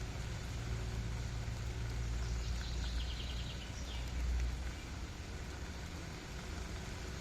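Outdoor woodland ambience: a steady hiss under a low rumble that builds and then eases after about four and a half seconds, with a bird's short, rapid trill about three seconds in.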